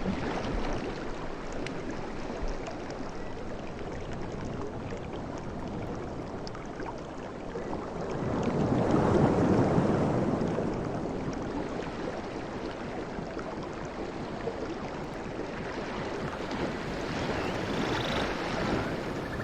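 Sea waves washing in on a shore, a continuous rush of surf with one wave swelling louder about halfway through and a smaller one near the end.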